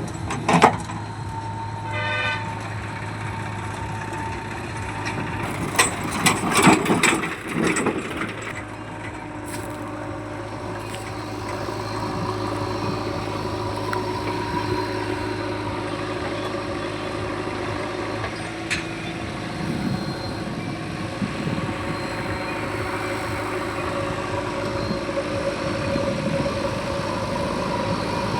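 Heavy diesel machinery engine running steadily. A short pulsing horn sounds about two seconds in, and a cluster of loud knocks comes around six to seven seconds in.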